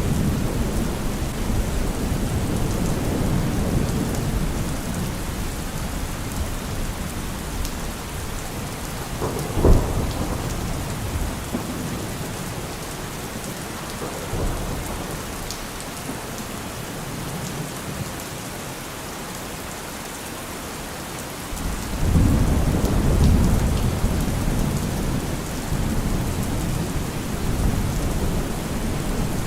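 Steady rain falling, with thunder rumbling low underneath. A short, sharp thunder clap comes about ten seconds in, the loudest moment. The rumble then dies away and starts up again suddenly about two-thirds of the way through.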